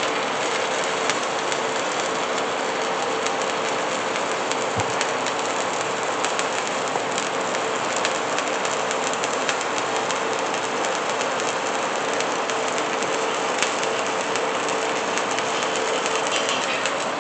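Welding arc crackling and sizzling steadily, like frying, with a faint steady hum underneath.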